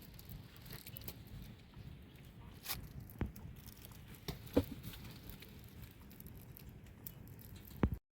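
Faint steady background hiss with a few scattered sharp taps and clicks, about five of them spread across the stretch.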